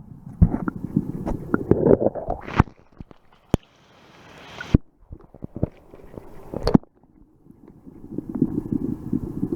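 Floodwater sloshing and gurgling in a deep rain puddle, with sharp knocks and bumps scattered throughout and a short rising hiss about four seconds in.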